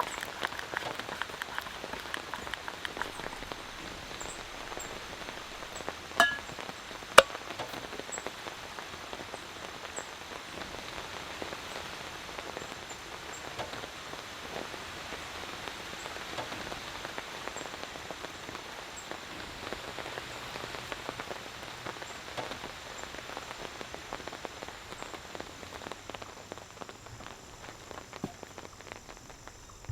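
Steady rain pattering down, with two sharp clicks about six and seven seconds in and a faint steady high tone underneath.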